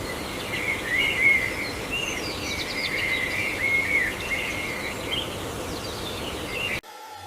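Small birds chirping over a steady background hiss of outdoor ambience, the chirps short and repeated; the sound cuts off abruptly near the end.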